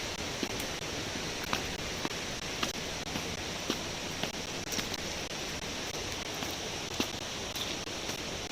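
Steady rush of running water from a forest stream or cascade, with scattered light clicks and taps over it.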